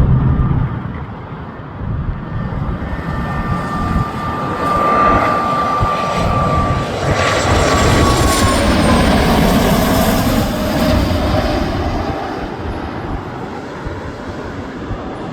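Fixed-wing airplane passing low overhead. The engine noise builds to its loudest in the middle, and a high engine whine drops in pitch as the plane goes by.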